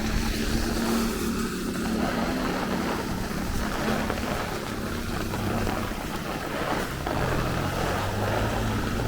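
Strong, gusty squall-line wind rumbling across the microphone over steady rain, with the low hum of traffic engines on the street.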